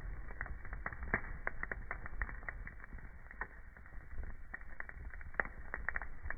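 Wood fire crackling in a fireplace: an irregular stream of small pops and snaps, several a second, over a low steady rumble of the flames, with one sharper pop a little past five seconds in.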